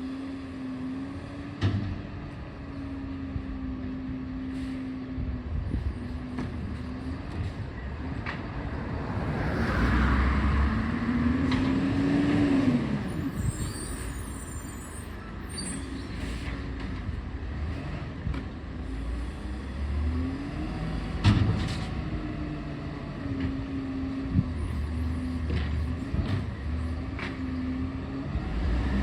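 Garbage truck engine running and working, with a steady tone that keeps cutting in and out, rising in pitch around a third of the way in and then falling back. There is a short hiss about halfway through and a few sharp knocks.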